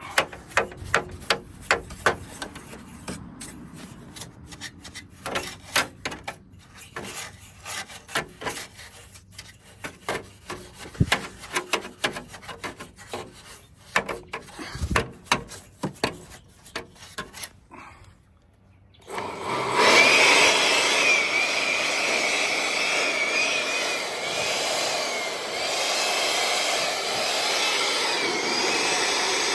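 Stiff brush scrubbing grime off the inside of a portable air conditioner, in quick irregular scratching strokes. About two-thirds of the way through, the scrubbing stops and a loud steady machine whoosh with a wavering whine starts up.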